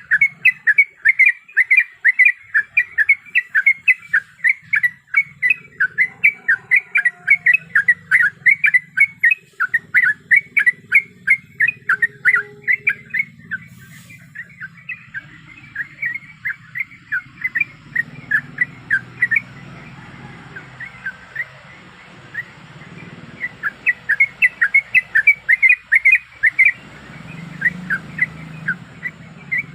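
Yellow-vented bulbul (trucuk) calling, used as a lure call: a fast run of short repeated notes, about three a second. The notes thin out about halfway through and come thick again near the end.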